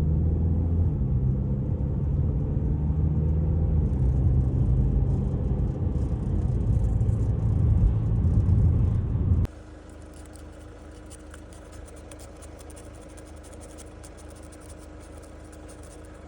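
Inside the cabin of a Mercedes CLA driving at around 60–70 km/h: steady road and engine rumble, the engine pitch stepping a couple of times. This is the speed at which the car makes a rattling wind noise that the owner traces to a loose front wheel-arch liner. About nine and a half seconds in it cuts off suddenly to a much quieter steady hum.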